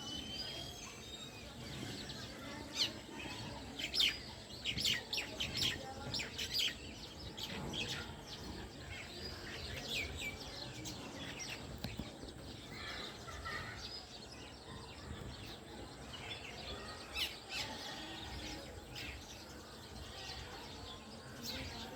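House sparrows chirping: many short, sharp chirps, busiest a few seconds in and again near the end, over a steady background noise.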